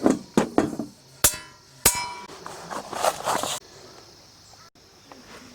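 Handling clatter with two sharp metallic clinks, the second one ringing briefly. Crickets chirp steadily in the background.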